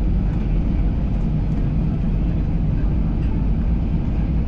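Steady low rumble of Airbus A320 cabin noise with the engines running, heard from a seat behind the wing.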